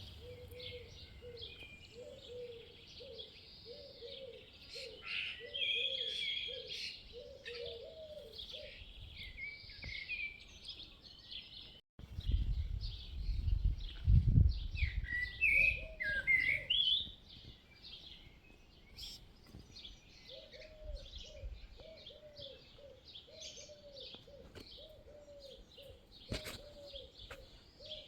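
Many small birds chirping and twittering in a busy chorus, with a short low call repeated a little faster than once a second beneath it. About 12 seconds in, the sound cuts, and a few seconds of low rumble follow as the loudest part.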